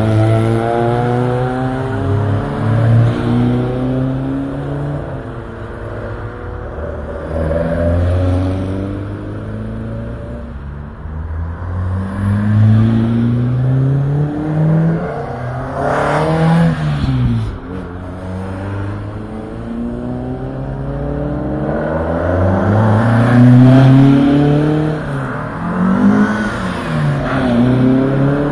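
A line of classic cars, mostly Fords, driving past one after another, their engines accelerating through the gears. Each engine's pitch climbs in steps, then drops as the car goes by.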